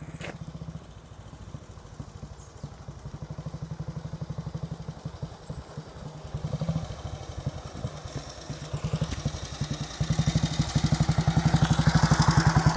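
Royal Enfield Model C motorcycle's WD/CO 350 overhead-valve single-cylinder engine running with an even beat of exhaust pulses. It gets steadily louder, and the pulses quicken about ten seconds in.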